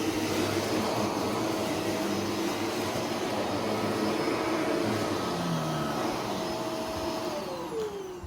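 Shark vacuum cleaner running steadily, then switched off about seven seconds in, its motor pitch falling as it spins down.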